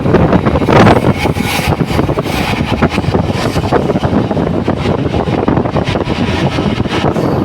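Train running: the steady, loud rumble and rattle of a moving passenger train, with irregular small clicks from the wheels and carriage.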